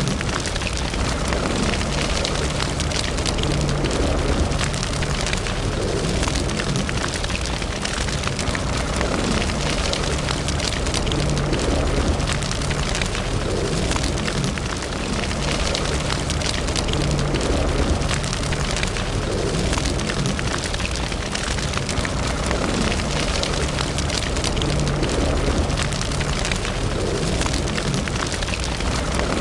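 Wood fire in a fireplace crackling and popping steadily, many small sharp snaps over a continuous low rumble of the flames.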